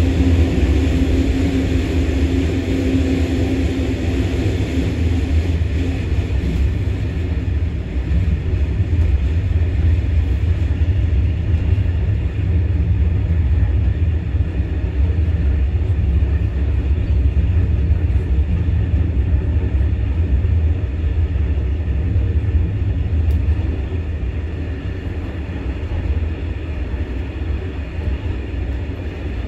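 Passenger train running along the track: a steady low rumble, with a hum that fades away over the first several seconds.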